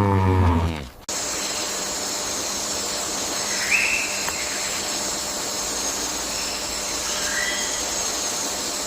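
A cow's moo trails off and stops abruptly about a second in. A steady hiss follows, with two faint short chirps partway through.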